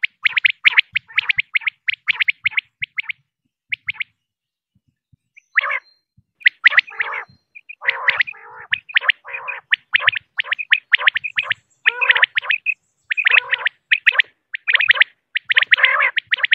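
Female common quail calling: rapid runs of short, sharp chirping notes. The calls stop about four seconds in for over a second, then resume in denser runs.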